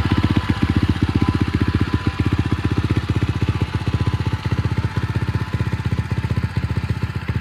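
SSR 125 pit bike's 125cc single-cylinder four-stroke engine running steadily at low speed, its firing pulses even and rapid with no revving.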